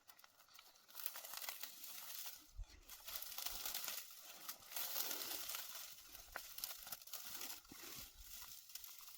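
Dry vegetation rustling and crackling in irregular bunches of small crinkly clicks.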